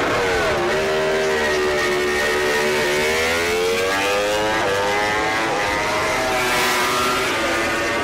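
MotoGP racing motorcycle engine, its pitch dropping sharply as it slows, then climbing steadily as it accelerates again.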